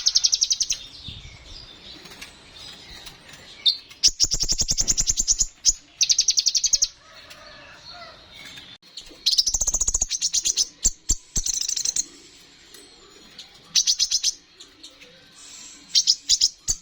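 A kolibri ninja sunbird singing in bursts of very fast, high-pitched trills, each burst a rapid run of sharp notes lasting up to about two seconds, with short pauses between.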